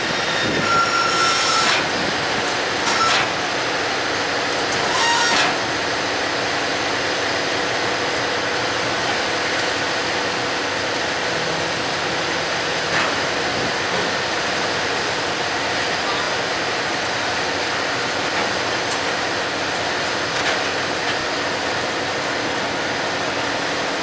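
Steady mechanical running noise with a low hum and hiss, broken in the first six seconds by a few short squeals and knocks.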